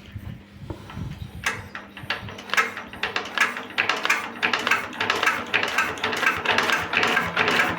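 Chinese-made 20 hp horizontal single-cylinder diesel engine being hand-cranked at its first start. A few soft low thumps give way, about a second and a half in, to a rhythmic clatter of knocks that quickens and grows louder into a fast, continuous knocking as the engine comes up to speed.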